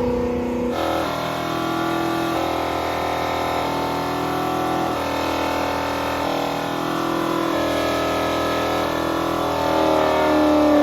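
Car engine running hard at sustained high revs, its pitch holding and then shifting in steps, and rising near the end.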